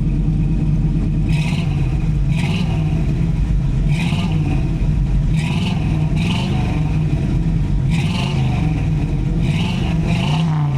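V8 engine of a 1983 Oldsmobile Cutlass Hurst running through its exhaust at a steady idle, with a few light revs that raise its pitch briefly. Short hissy bursts recur every second or so.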